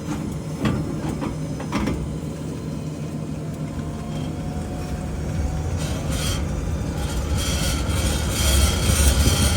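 Metallic grinding and scraping at the rear passenger-side wheel of a 2022 Ford F-150 PowerBoost while driving, over low road and tire rumble, with a few knocks early on and growing louder about six seconds in: the sign of a rear axle bolt that has broken free from the axle.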